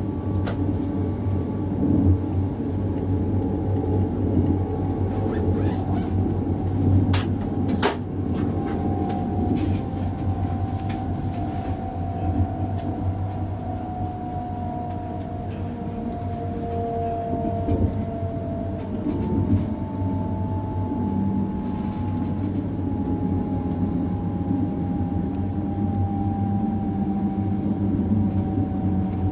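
ICE 3 high-speed electric train heard from inside its front passenger compartment: a steady rumble of wheels and running gear, with a traction-motor whine that slowly falls in pitch as the train slows. A few sharp clicks come about a quarter of the way in.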